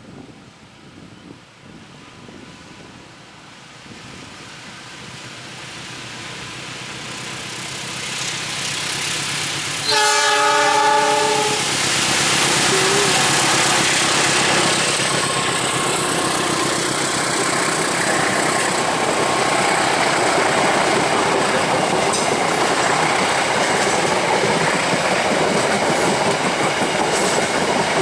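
A train approaching and growing steadily louder for about ten seconds, then sounding one horn blast of about two seconds. Its wheels then clatter loudly and steadily on the rails as it passes close by.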